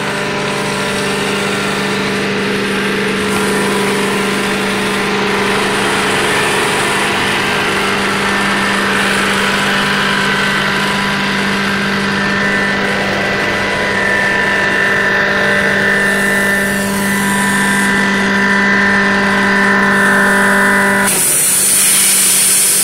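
Prochem Legend SE truck-mount carpet cleaner with its Kohler 22 hp engine running steadily under load. Near the end the tone changes and a high hiss comes in.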